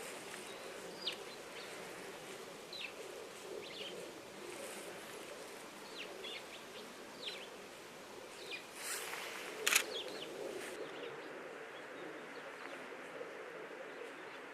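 Scattered short, high bird chirps, about eight of them, over a steady low outdoor hum, with one louder, sharp sound just under ten seconds in.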